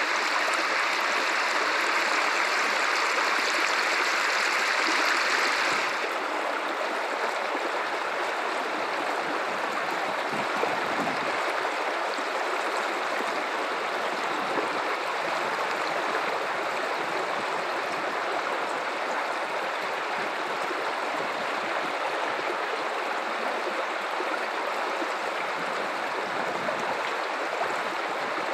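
Guadalupe River water running steadily in a continuous rushing wash. About six seconds in it abruptly becomes a little quieter and less bright.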